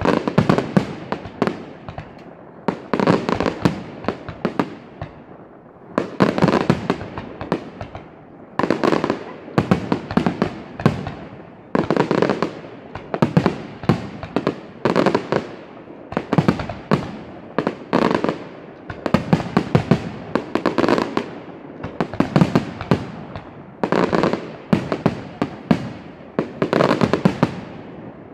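Fireworks display: aerial shells bursting in quick succession, clusters of sharp bangs coming about once a second or so.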